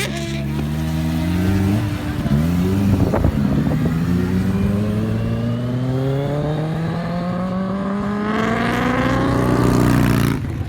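Kawasaki Ninja H2's supercharged inline-four running through a Brock's Performance slip-on exhaust, pulling hard with its pitch climbing steadily for several seconds. A short sharp pop comes about three seconds in, and the note drops off suddenly near the end as the throttle closes.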